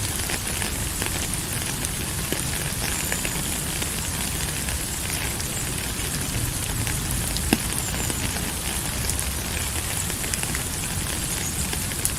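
Steady rain falling: a constant hiss with scattered sharper drop ticks and a low rumble underneath.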